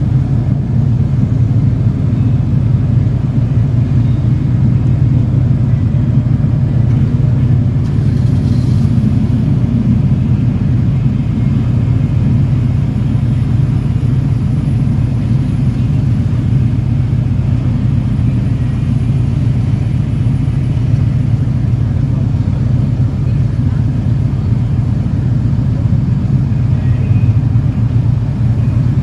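Steady low rumble of a motorcycle underway at an even pace, with no clear revving or gear changes.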